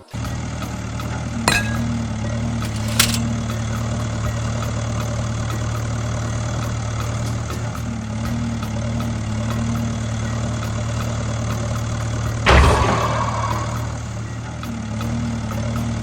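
Mini tractor engine idling steadily with an even hum, broken by a couple of sharp clicks in the first few seconds and a louder clatter about twelve and a half seconds in.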